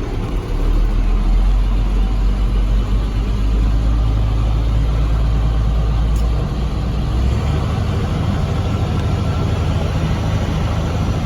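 Detroit straight-six diesel engine in a 1998 International truck running at idle. About six and a half seconds in its note changes: the deepest hum drops away and a somewhat higher steady note takes over.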